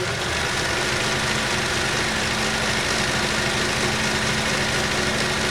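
Kenmore 158.19311 sewing machine running steadily at speed, sewing an edge stitch with its needle going up and down in a rapid, even rhythm.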